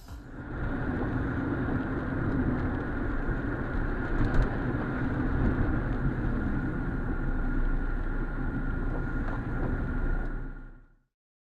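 Car on the move: steady engine and road rumble with a thin whine, and a brief sharp knock about four seconds in. It fades out near the end.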